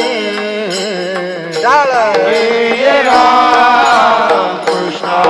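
Devotional bhajan music: a melody with sweeping, ornamented pitch glides, most likely sung without words, over a steady drone and drum strokes.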